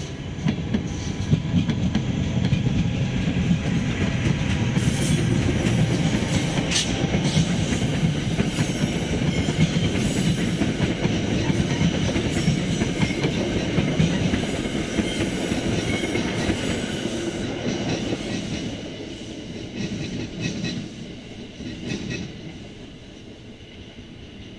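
Commuter passenger train passing close by: a rumble of wheels on rail and a clickety-clack over the joints, with a high wheel squeal and rattling from about five seconds in and a single sharp clank. It fades away as the train pulls off into the distance.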